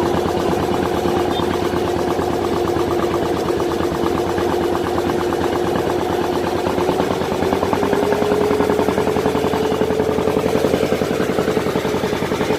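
Boat engine running steadily under way, picking up speed slightly about seven seconds in.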